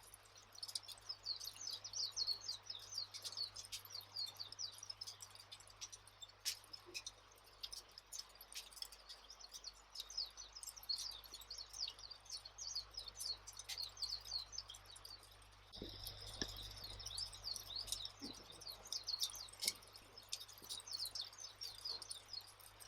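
Campfire ambience: scattered crackling pops over a dense, continuous background of quick high chirping, with a low rumble swelling for a couple of seconds about two-thirds of the way through.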